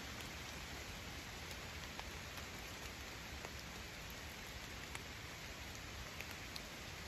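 Faint steady hiss of light rain, with scattered single drops ticking.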